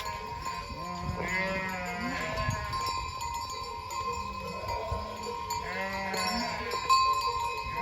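Sheep bleating, with two bursts of calls, one about a second in and another about six seconds in, over background music.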